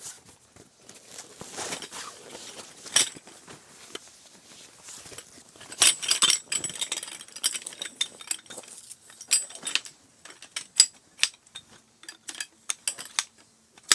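Clinking and clattering of hard objects being handled: a run of irregular sharp clicks and knocks, densest about three and six seconds in.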